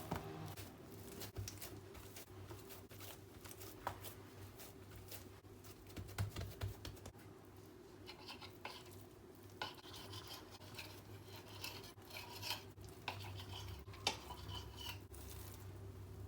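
Kitchen handling sounds: scattered light clicks and knocks of utensils and dishes, with stretches of scraping or rubbing in the second half, over a steady low hum.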